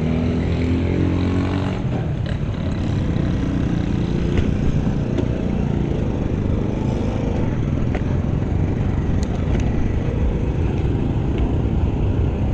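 A motor vehicle passing close by, its engine note falling in pitch over the first couple of seconds. After that comes a steady low rush of wind and road noise.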